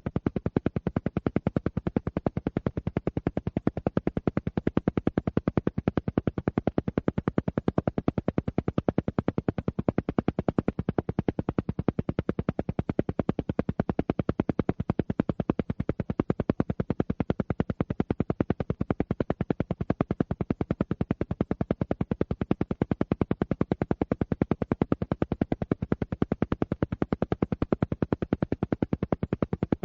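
Alpha-wave brainwave-entrainment track: a steady train of rapid, evenly spaced pulses that goes on without a break.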